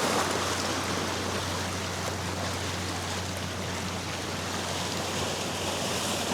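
Waves washing on the shore, a steady rushing hiss of surf.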